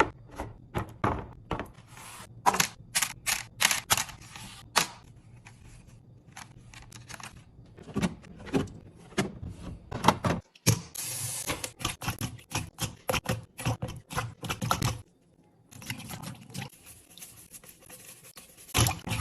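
A run of irregular clicks, taps and knocks from containers, lids and food items being handled and set down while a fridge is restocked. The sound stops briefly twice, once about halfway through and again a few seconds later.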